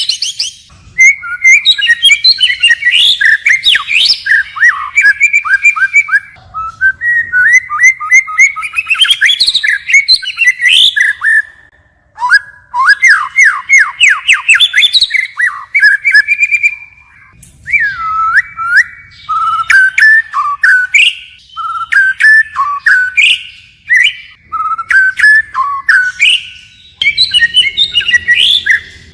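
White-rumped shama singing: a run of fast, varied whistled phrases full of rapid notes and pitch sweeps, each phrase a few seconds long with short pauses between, the song changing from one phrase to the next.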